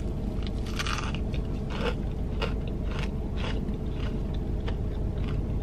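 A person biting into and chewing a large fried chicken sandwich, close to the microphone, with short irregular crunchy chewing sounds over a low steady hum.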